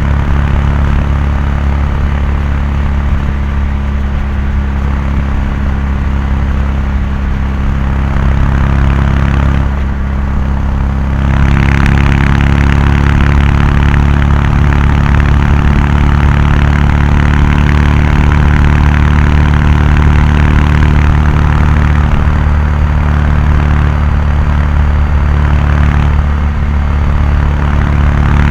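Kawasaki Meguro K3's air-cooled parallel-twin engine and exhaust cruising at expressway speed, a steady, even note. About ten seconds in it briefly eases off, then pulls again a little louder.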